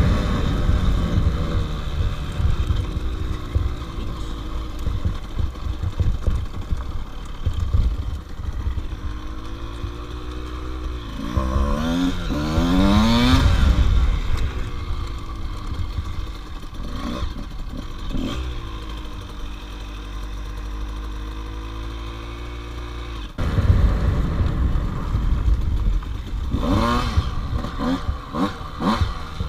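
Small two-stroke dirt bike engine, a KTM 85, being ridden, its pitch rising and falling as the rider works the throttle through the gears. It revs up hard about twelve seconds in and again near the end, over a constant low rumble. The sound gets suddenly louder a little after two-thirds of the way through.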